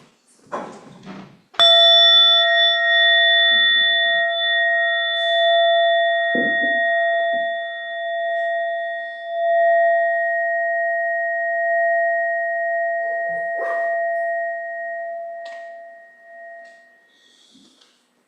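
A bell struck once, about a second and a half in, with a clear ringing tone of several pitches that slowly fades over about fifteen seconds.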